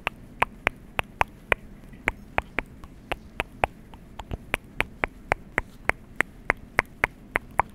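A rapid series of sharp taps or clicks, about four a second and slightly uneven, over a faint steady hiss.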